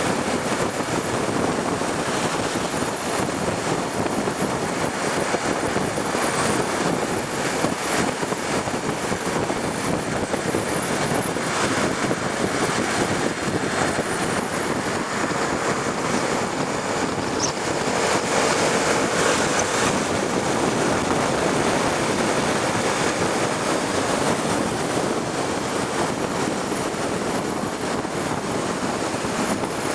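Steady rush of wind and road noise from a Honda Tornado motorcycle ridden at speed on a highway, with a faint steady tone in the middle.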